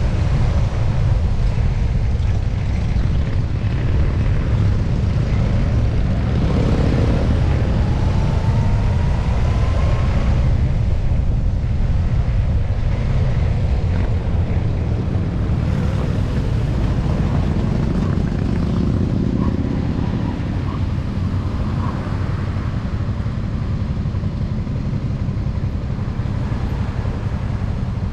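Motorcycle engine running with a loud, steady low rumble; a faint rising whine comes in about seven seconds in and climbs for a few seconds.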